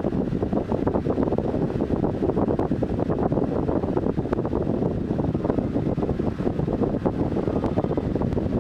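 Steady rumbling rush of noise with a constant crackle, at an even level throughout.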